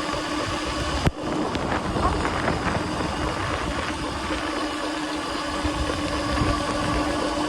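Electric bike's 2000 W motor whining at a steady pitch while riding, over a constant rushing noise. The sound cuts out for an instant about a second in.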